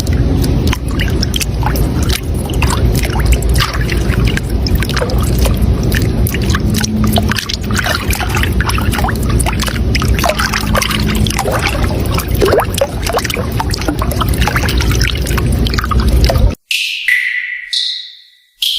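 Water rushing and splashing steadily, like a fast stream or small waterfall. It cuts off suddenly near the end, and a few short high tones follow.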